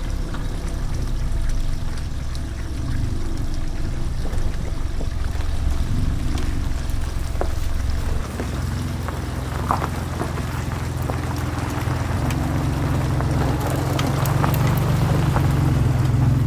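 A vehicle engine running steadily as a low drone, growing louder over the last few seconds.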